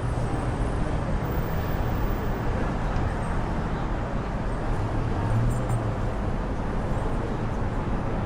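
City street traffic: a steady rumble of vehicles and engines, with a low engine drone that swells briefly about five seconds in.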